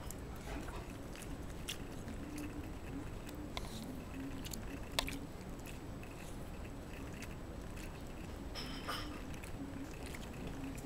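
A Shiba Inu's faint, irregular clicking and smacking mouth and throat sounds, with one sharper click about five seconds in and a small cluster near the end.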